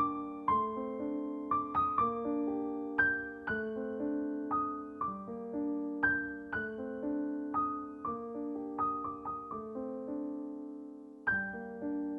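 Background music: a slow, gentle solo piano melody, single notes and chords struck about twice a second and left to ring, with a short lull near the end before the playing picks up again.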